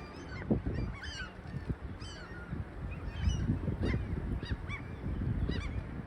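Strong wind buffeting the microphone, with short bird calls repeating about every half second.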